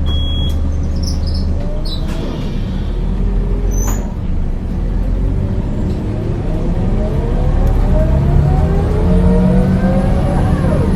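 A 2001 Scania L94UB bus's DC9 9-litre six-cylinder diesel runs low and steady for a few seconds, then the bus pulls away, with a rising whine from the engine and driveline as it speeds up. The sound gets louder toward the end.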